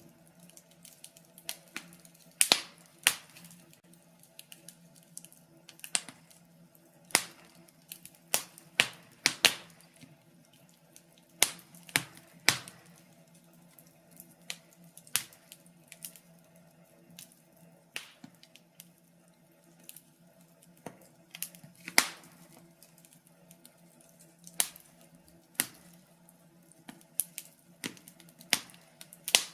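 Fire in a fireplace crackling: irregular sharp pops and snaps, some much louder than others, over a faint steady low hum.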